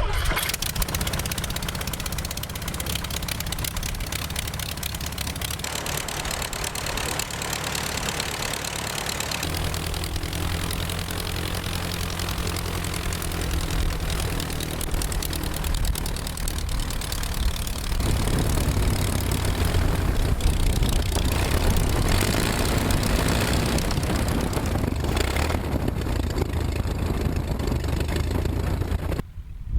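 Fokker aircraft's piston engine and propeller running steadily. The note grows fuller and louder about ten seconds in and again about eighteen seconds in, with a brief dip just before the end.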